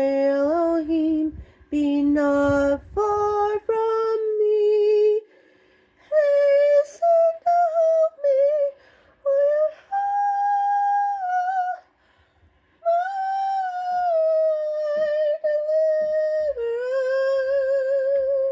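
A woman's mezzo-soprano voice singing slow phrases of long held notes with short breaks between them, climbing from low to higher notes in the first few seconds. The last long note near the end has a clear vibrato.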